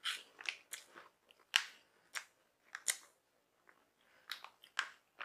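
Crunching and chewing of Bamba peanut butter puffs, a puffed corn snack, being eaten: a string of short, irregular crisp crunches, some louder than others.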